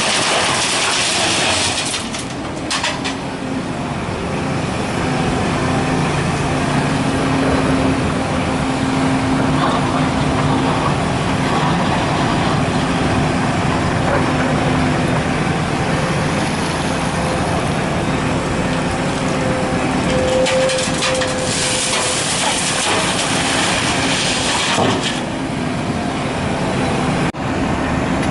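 Large diesel excavator running steadily under work, its engine note wavering slightly, with stretches of hissing noise at the start and again a few seconds before the end.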